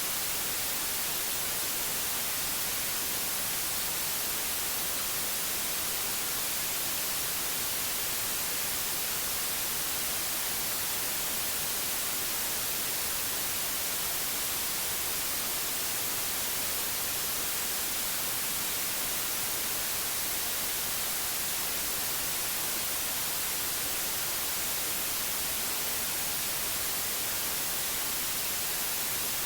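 Steady white noise: a constant, even hiss that is strongest in the high frequencies and does not change.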